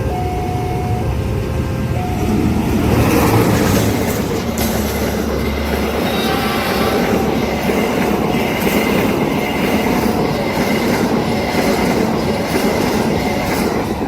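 A train passing a level crossing at speed, its wheels clattering over the rail joints, growing loud about two and a half seconds in and staying loud. Under it the crossing's warning signal sounds two alternating tones.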